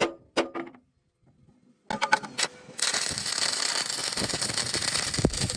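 A few sharp metallic clicks and knocks, then about three seconds of harsh, dense hissing crackle from metalworking on the excavator boom, which stops suddenly at the end.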